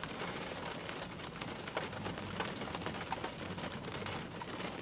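Rain falling steadily, with many small drops ticking sharply on a surface.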